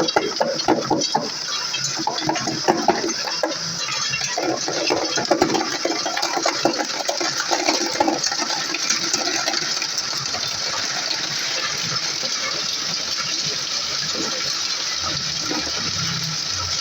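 Pieces of tube ice clinking and clattering as a tube ice machine discharges them, over a steady hiss from the machine. The clinking is dense for the first half and then thins out, leaving mostly the hiss.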